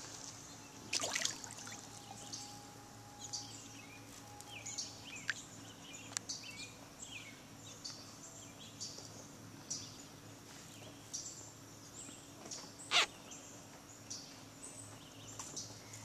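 Songbirds chirping and singing over and over in the background, with a faint steady hum. A short click comes about a second in, and a sharper, louder click comes near the end.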